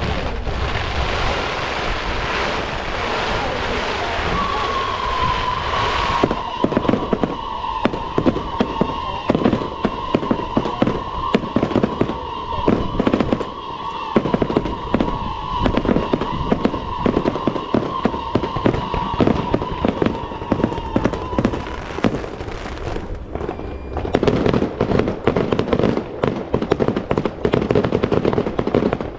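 Fireworks going off in rapid succession: a dense rush of hissing at first, then a fast run of sharp bangs and crackles. A steady high whistle runs through it from about four seconds in until about twenty-two seconds. After a short lull the crackling starts again, thick and fast.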